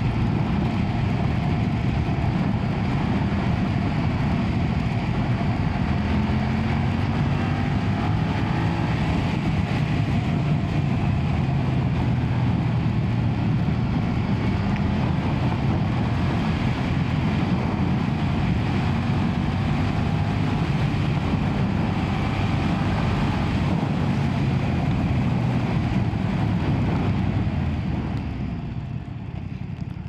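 BMW F900R's 895cc parallel-twin engine running as the bike is ridden, its note rising and falling with the throttle over a steady rush of wind and road noise. The engine eases off slightly near the end.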